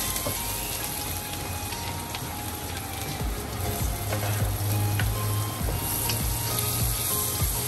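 Chopped garlic sizzling in hot oil in a wok, stirred with a wooden spatula. Partway through, red onion wedges go in and the sizzling grows louder.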